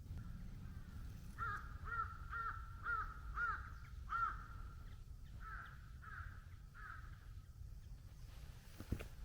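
A crow cawing in a quick series of about eight calls, roughly two a second, then three fainter caws, over a steady low rumble.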